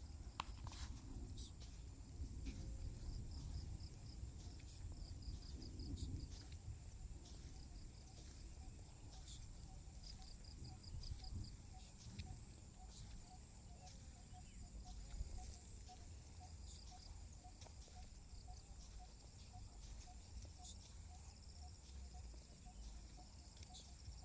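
Faint countryside ambience after rain: insects trilling steadily at a high pitch, with short rapid chirping trills and a soft regular pulsing call about three times a second, over a low rumble.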